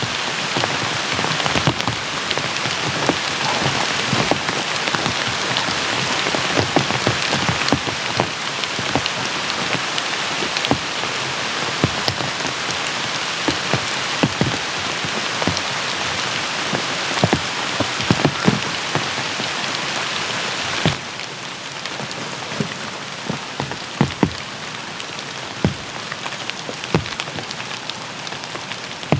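Heavy rain pouring down, a dense hiss with many close drops striking sharply. About two-thirds of the way through it drops to a lighter, quieter downpour.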